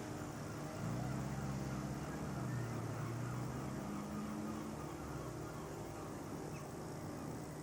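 A boat's engine running, a steady low hum whose pitch shifts a little as it goes.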